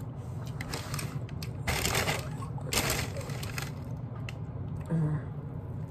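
Close-miked eating of barbecue ribs: wet chewing, lip smacks and mouth clicks, with two louder noisy bursts about two and three seconds in and a brief vocal sound near the end.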